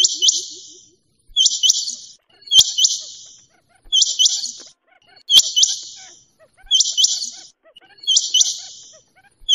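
Quail calling over and over: a short, harsh, high call repeated about every second and a third.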